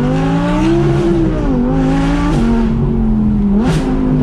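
Audi R8 V10 PLUS's naturally aspirated 5.2-litre V10 accelerating through a Quicksilver titanium and stainless active exhaust. The engine note climbs and then drops back at gear changes about one and a half and two and a half seconds in.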